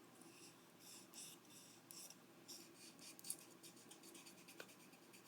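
Faint, irregular scratchy rubbing strokes, a few short ones every second or so.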